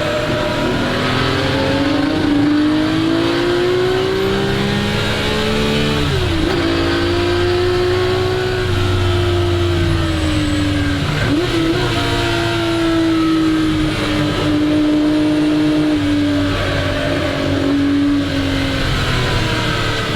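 1961 Ferrari 250 GT SWB's Colombo V12 engine under hard acceleration on track, its pitch climbing, with brief breaks for gear changes about six and eleven seconds in.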